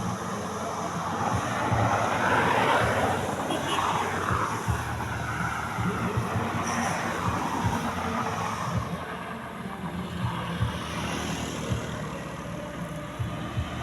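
A vehicle's engine going by, getting louder about two to four seconds in and then fading.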